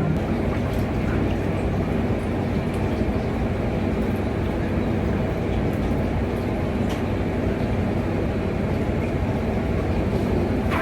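Steady machine drone with a low hum, from the running equipment of a food truck kitchen, with a few faint ticks.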